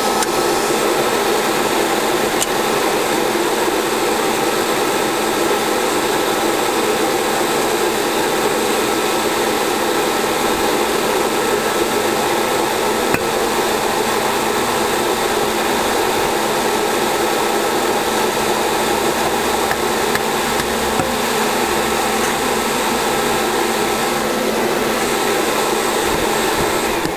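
Iron-melting furnace running during the tap: a loud, steady rushing blast with a thin steady whine through it. It falls away at the very end.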